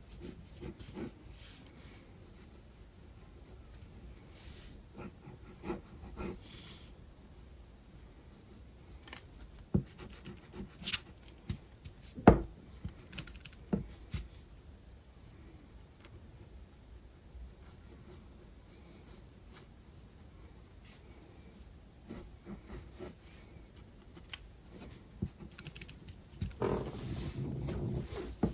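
Graphite pencil scratching and rubbing on sketchbook paper in soft, uneven strokes, with a few sharp clicks in the middle and a louder rustle of paper near the end.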